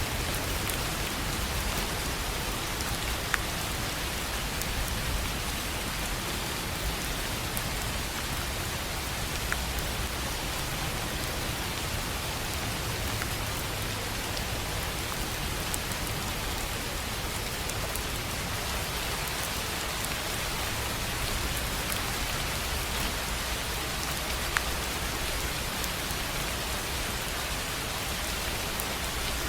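Steady rain falling on a tin roof, a dense even patter with a few sharper single drop hits standing out now and then.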